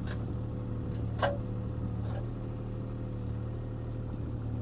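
CAT 303C CR mini excavator's diesel engine running steadily with a constant higher hum over it, and one sharp knock about a second in.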